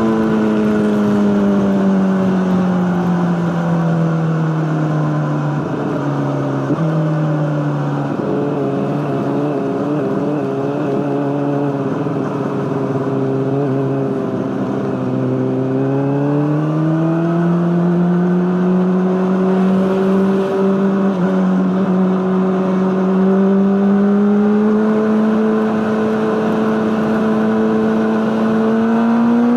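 Honda CBR600RR inline-four running through an Akrapovic exhaust, its engine speed sinking slowly over the first half and then climbing gradually again toward the end.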